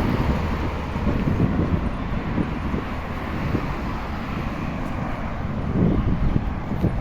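Wind buffeting the microphone of a camera on a moving bicycle, over steady road and traffic noise.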